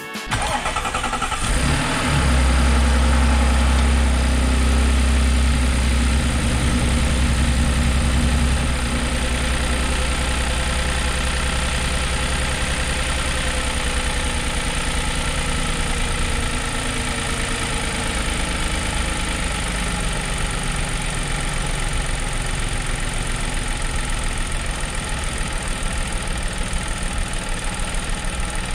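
Audi 3.0T supercharged V6 started up after a supercharger belt tensioner and idler pulley replacement. It catches about two seconds in, runs at a raised idle, then settles to a lower steady idle about eight or nine seconds in. It is running with misfires on cylinders 3 and 4 that have set the check engine and EPC lights.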